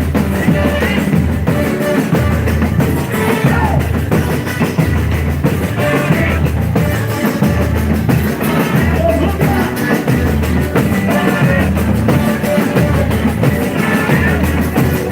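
Live boi-bumbá toada played through a loud sound system: band and percussion with a heavy low beat about once a second, and a sung lead voice over it.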